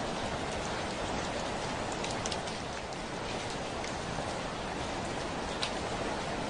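Heavy rain falling steadily on a window pane, a continuous even hiss with a few louder single drops ticking against the glass, notably a couple just after two seconds in and one more past five seconds.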